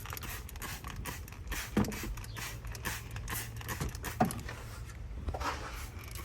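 Scattered light clicks, taps and rustling over a low steady hum, with a couple of sharper knocks about two and four seconds in.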